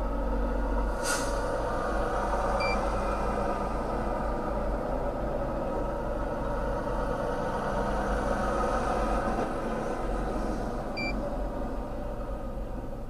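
Steady vehicle engine and rumble, with a sharp click about a second in and two short high beeps, one early and one near the end.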